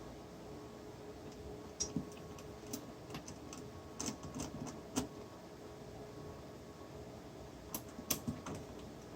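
Light clicks and small metallic taps in irregular clusters, like small metal hardware being handled, over a faint steady hum.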